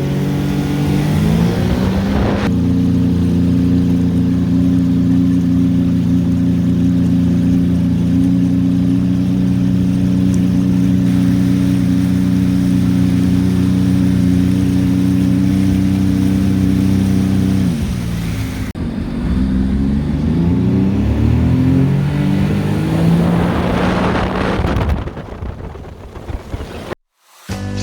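Sea-Doo GTX iS personal watercraft engine running at a steady speed, then easing off about eighteen seconds in and revving up again, before fading and cutting out near the end.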